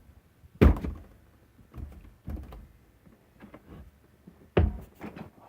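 Door knocks and thuds: a loud thunk about half a second in, smaller knocks, then another loud thud near the end, each short and sharp.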